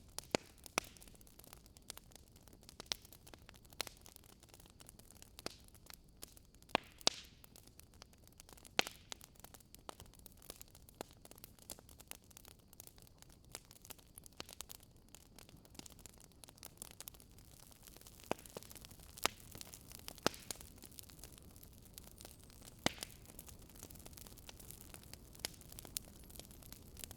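Wood fire burning in a fireplace: logs crackling with irregular sharp pops over a faint steady hiss.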